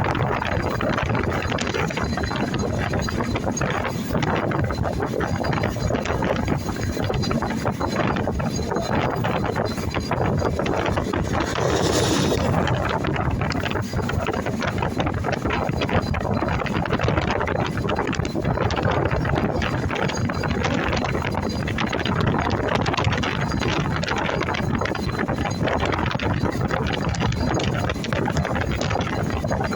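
Steady rumble and wind rush of a moving train, with a brief sharp squeal about twelve seconds in.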